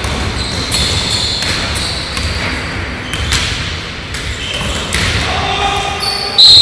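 Indoor basketball play: the ball bouncing on the court, with short high squeaks of shoes on the floor echoing in a large hall. Near the end comes a sudden loud, shrill high tone, the loudest sound here.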